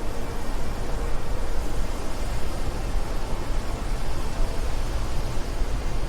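Steady wind blowing: an even, deep rushing noise without distinct gusts or breaks.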